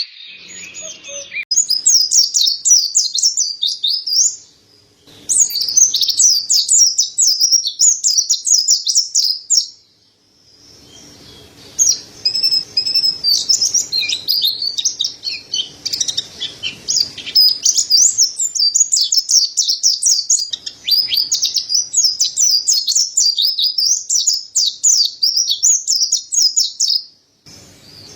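Mountain white-eye (pleci dada putih) singing: long, rapid twittering phrases of high notes that quickly rise and fall, in three bouts broken by short pauses about four and ten seconds in.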